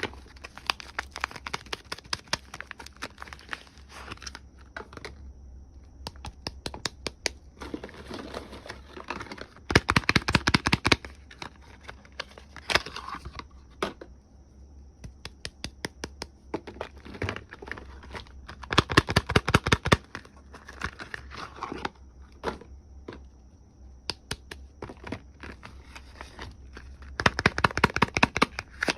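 Soap packaging being unwrapped by hand: paper and plastic wrappers crinkling and tearing, with scattered sharp clicks. Three louder bursts of rapid clicking come about ten seconds apart: one near the middle of the first half, one just past two-thirds of the way through, and one near the end.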